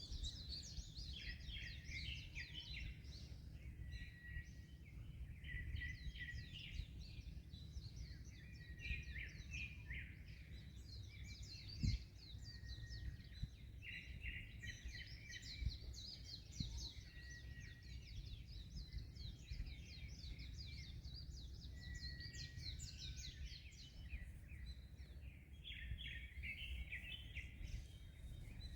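Many small birds chirping and singing at once, with overlapping calls that never stop, over a steady low rumble of wind and waves. A single sharp knock about twelve seconds in.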